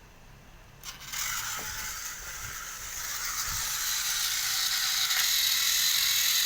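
Small battery-powered toy train motor switched on with a click about a second in, then whirring steadily with a hissing edge, growing louder.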